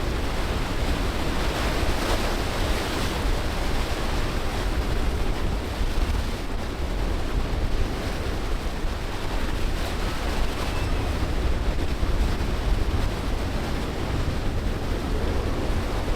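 Rushing surf and choppy inlet water under wind buffeting the microphone, a steady rumbling noise with no distinct events.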